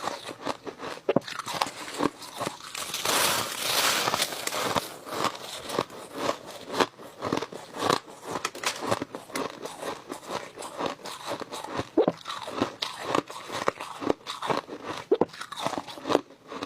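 Crushed ice being bitten and chewed close to the microphone: continuous crisp crunching, densest and loudest about three seconds in.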